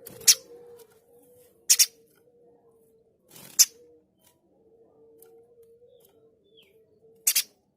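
Spiderhunter (pijantung gunung) giving four short, sharp, harsh call notes, two of them doubled, with a longer pause after the third. A faint steady hum runs underneath.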